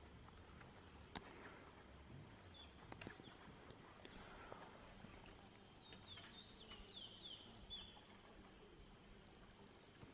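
Faint rainforest ambience near the edge of silence, with a few scattered soft ticks. About six seconds in, a bird gives a quick series of short, high, falling chirps.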